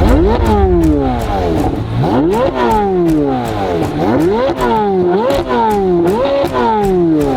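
C8 Corvette Z06's flat-plane-crank V8 revving repeatedly through an AWE SwitchPath exhaust: about six quick climbs in pitch, each falling away slowly.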